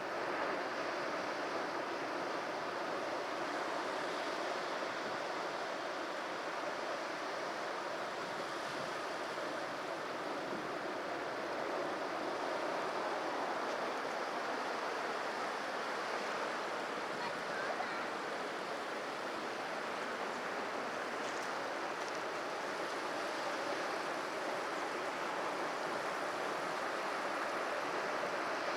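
Sea surf breaking continuously on a rocky shore, a steady wash of waves that swells and eases gently.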